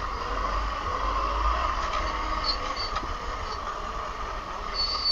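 Razor MX350 electric dirt bike coasting off the throttle: a steady whir from the rolling bike, with wind rumbling on the microphone.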